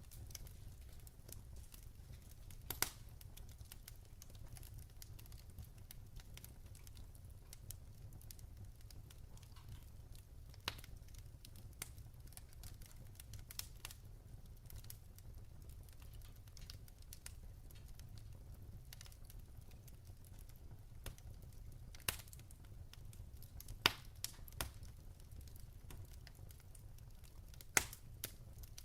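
Wood fire in a fireplace crackling: sparse, sharp pops from burning logs every few seconds over a steady low background. The sharpest pops come about three quarters of the way through and near the end.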